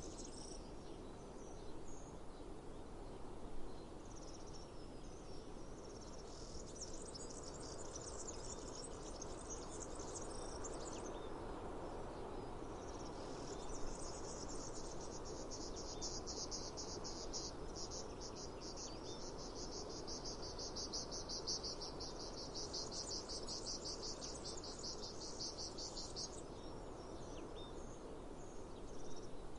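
Cicadas buzzing in a fast, pulsing high trill, in two long spells, the second lasting about twelve seconds, over a steady background rush with a couple of brief knocks.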